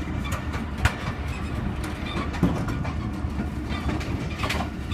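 Passenger train running on the rails, heard from on board: a steady low rumble with a few sharp knocks and clatters from the carriage.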